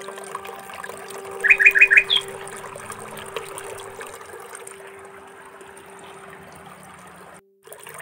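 A bird chirping: four quick notes about a second and a half in, then one higher note, over a soft steady rushing hiss and a held low note from background music. The sound drops out briefly near the end.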